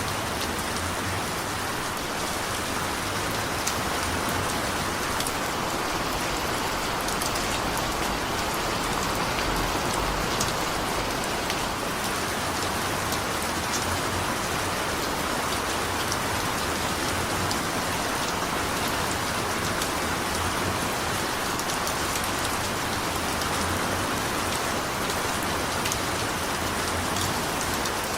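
Steady rain falling on surfaces, an even hiss dotted with individual drop ticks.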